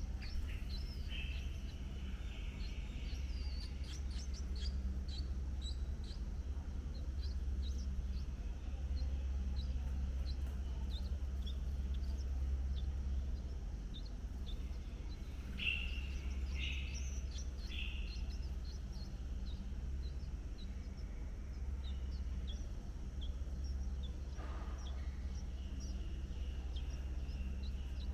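Birds chirping: a steady run of short, high chirps, with a few louder, lower calls a little past the middle, over a constant low outdoor hum.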